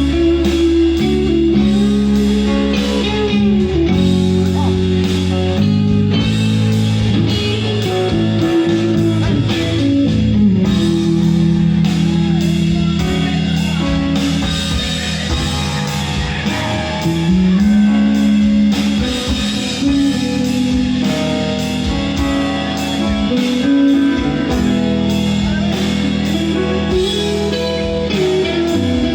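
Rock band music led by guitars over bass and drums, with a steady beat.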